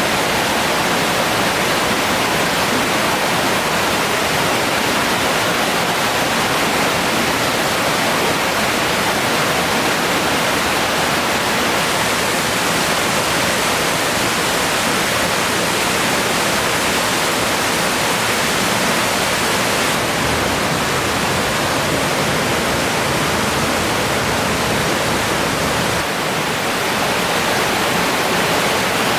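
Steady rush of flowing river water, with no breaks or distinct events.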